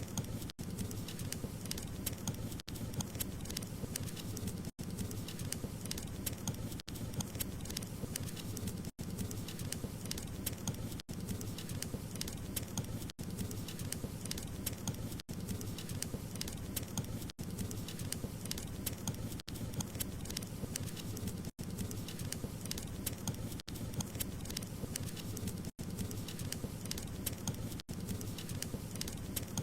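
Burning wood crackling: a steady low rush of fire dotted with many small sharp pops and snaps, with a brief gap in the sound about every two seconds.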